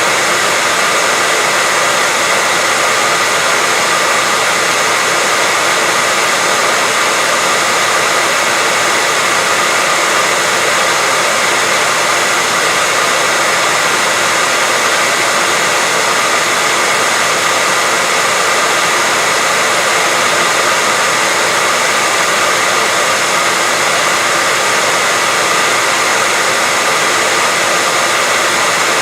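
Steady white noise: an unbroken, even hiss, bright and strongest in the upper range, with no change in level.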